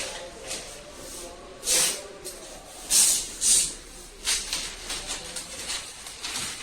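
Short, irregular bursts of compressed air hissing, three of them loudest, typical of an air nozzle being triggered on and off during body prep for paint.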